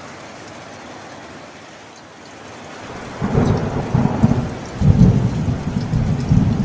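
Steady rain, then about halfway through a loud rolling rumble of thunder sets in and swells in several surges over the rain.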